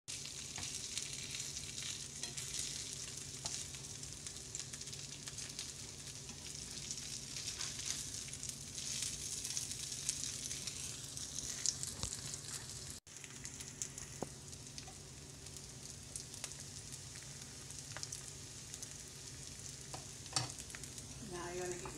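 Fish cakes frying in butter and oil in a nonstick skillet: a steady sizzle with scattered crackling pops, and a spatula pushing and turning the cakes in the pan. The sound breaks off for a moment about halfway through.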